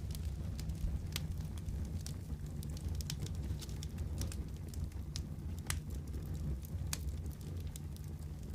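Wood fire burning in a fireplace: a steady low rumble of the flames with scattered sharp crackles and pops, a few louder ones among them.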